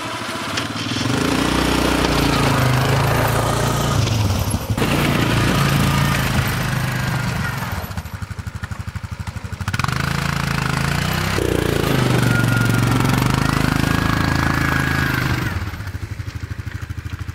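Engine of a snow-clearing machine running and revving, working hard, then dropping back to a quieter, pulsing idle twice: once about halfway through and again near the end.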